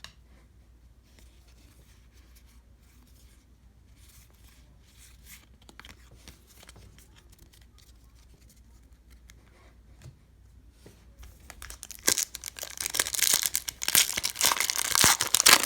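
Faint handling of cards, then from about twelve seconds in a baseball-card pack wrapper being ripped open, loud crinkling and tearing.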